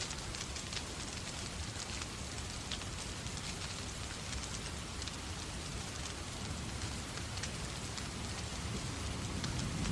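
Steady rain mixed with a crackling fireplace fire, scattered sharp ticks over an even hiss. A low rumble swells near the end.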